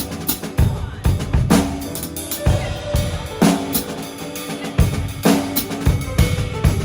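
Drum kit played in a steady groove: a snare crack about once a second with bass drum thumps between, with cymbals.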